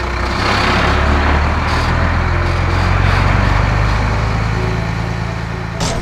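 Heavy truck engines running as the trucks drive, a steady low rumble under a loud hiss, cutting off just before the end.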